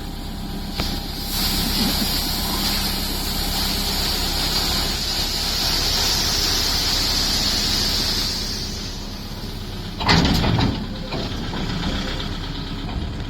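Diesel engine of a farm machine running steadily, with a loud rushing hiss over it from about one to eight seconds in, and a brief loud burst about ten seconds in.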